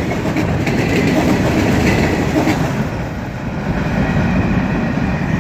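Freight train cars rolling past on the rails: a steady rumble of wheels on track, with faint squealing tones in the first half that fade after about three seconds.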